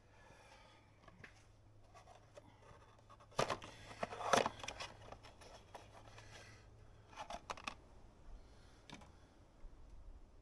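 Clicks and scrapes of oil filter parts being handled. A dense cluster comes about three and a half seconds in, and a few sharper clicks follow a few seconds later, over a faint steady hum.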